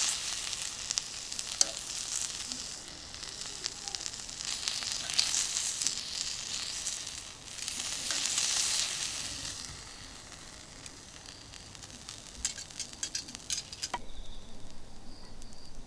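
Kalbi beef sizzling on a hot steel griddle, the fat hissing in waves that swell and fade, with a run of sharp crackles and pops before the sizzling cuts off near the end.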